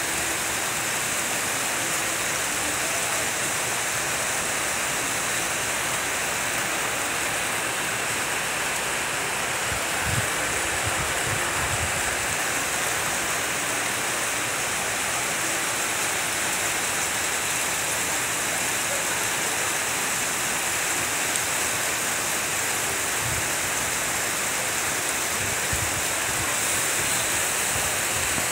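Heavy rain falling steadily, a dense even hiss, with a few brief low thumps around the middle and near the end.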